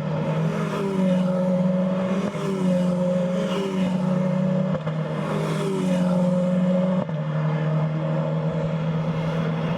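Renault Clio Cup race car engine running hard at high revs, its note holding steady for a second or two at a time and briefly dipping in pitch several times.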